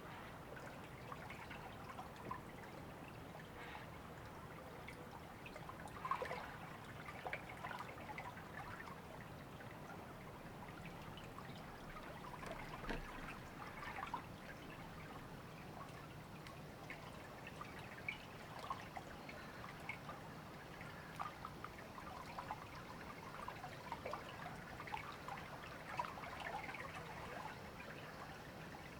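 Shallow river or stream trickling and babbling over stones, a steady low wash with many small irregular splashes and drips.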